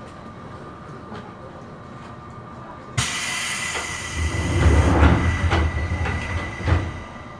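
Steady running noise inside a Seibu New 2000 series electric train car. About three seconds in, a loud rush breaks in suddenly, with a heavy rumble and a few thumps, then drops back to the steady running sound after about four seconds.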